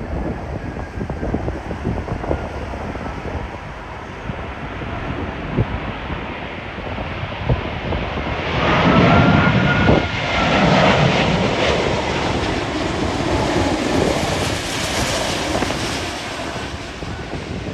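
Jet airliner on landing approach passing close by, its engines rising to a peak with a whine that bends up and then down about halfway through, then fading away, over gusty wind buffeting the microphone.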